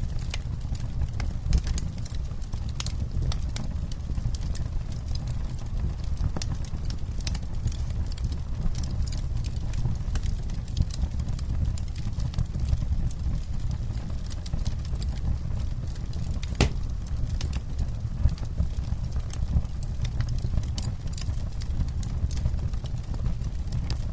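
Wood campfire crackling: irregular sharp pops and snaps over a steady low rumble, with one louder pop about two thirds of the way through.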